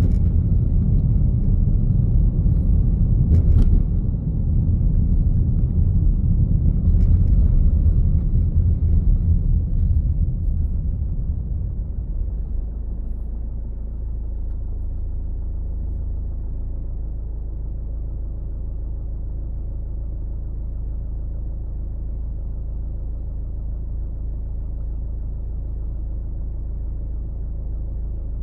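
Low rumble of a car driving: engine and road noise, louder and rougher for the first dozen seconds, then settling into a steady, quieter low hum. A short sharp click about three and a half seconds in.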